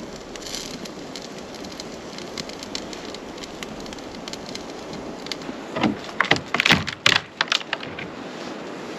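Wood fire crackling, with scattered small pops over a steady hiss. About six seconds in comes a quick run of louder sharp knocks and clatter lasting about a second and a half.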